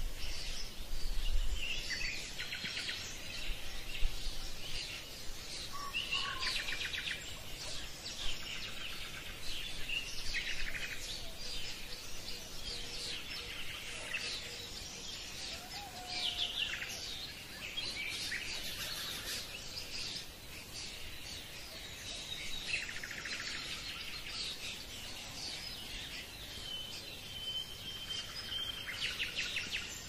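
Birds chirping and trilling, one call after another, with rapid buzzy trills; near the end a thin steady whistle is held for about two seconds.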